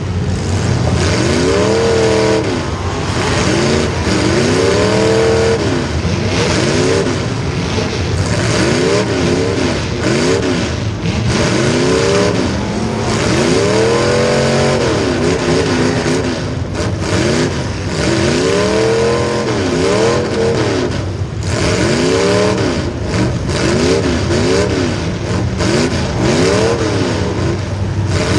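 Racing engine revving up and falling back again and again, its pitch climbing and dropping every second or two.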